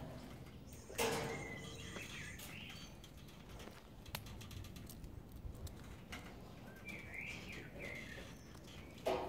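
Small birds chirping in two short bursts of quick gliding calls, one early and one about three-quarters of the way through, over faint outdoor background. A single sharp knock about a second in is the loudest sound.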